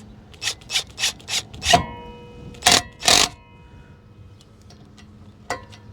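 Hand tool tightening the set screw of a new brake rotor: a run of quick metallic clicks and scrapes, then two louder knocks that set the rotor ringing, and one more knock near the end.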